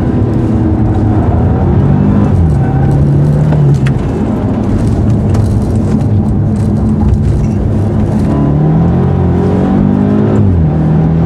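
BMW Alpina B6's twin-turbo V8 under hard driving on a track lap. The engine note shifts about two seconds in, holds steady, then climbs for a couple of seconds late on and drops sharply near the end.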